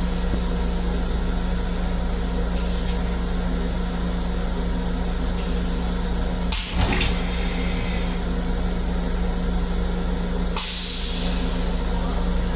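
Steady hum of an LIRR M7 electric railcar's equipment in the small restroom, broken three times by hissing air. The longest hiss lasts a couple of seconds about halfway through, with a click in it.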